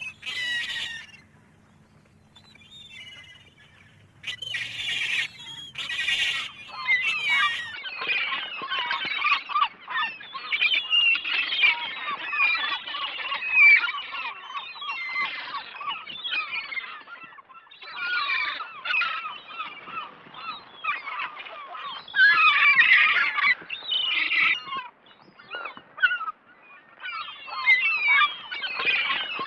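A flock of gulls crying: a few separate calls at first, then from about a quarter of the way in a dense chorus of many overlapping calls.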